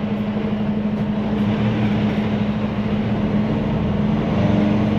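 Semi truck's diesel engine running with a steady low drone, getting a little louder near the end.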